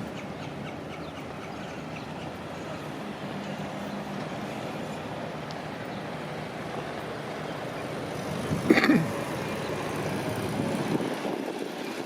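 Road traffic passing close by: a steady noise of cars and heavy trucks. About nine seconds in, a brief loud sharp sound stands out above the traffic.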